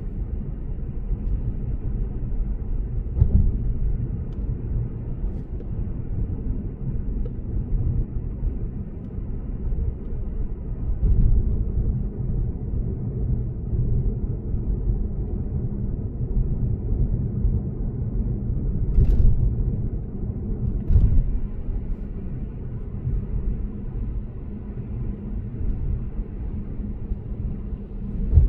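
Lexus GS450h cruising at speed: a steady, low road and tyre rumble, broken a few times by short, dull thumps.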